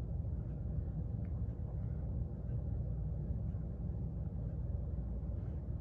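Steady low rumble of a moving car's road and engine noise, with no distinct events.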